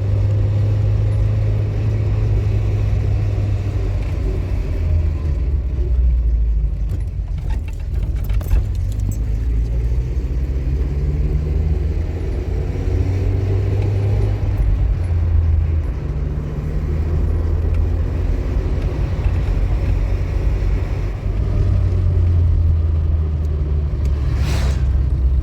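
A motor vehicle's engine running, its low hum shifting up and down in pitch as it drives.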